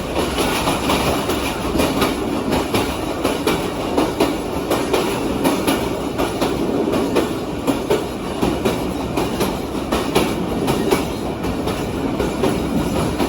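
Train running on the rails: a steady rumble with frequent clicks and knocks of the wheels passing over rail joints.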